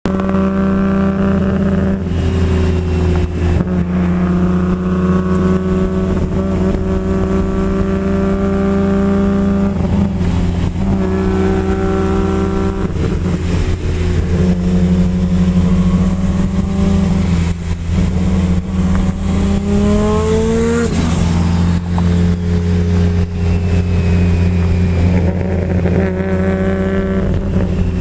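Toyota Supra MKIV's single-turbo 3.0-litre straight-six running steadily, with short rises in revs every several seconds. The biggest rev comes about 20 seconds in: it climbs for about two seconds, then drops off sharply.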